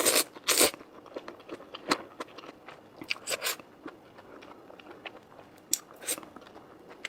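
Close-up eating sounds of a person chewing and biting food: irregular mouth clicks and crunches, with a few louder bursts.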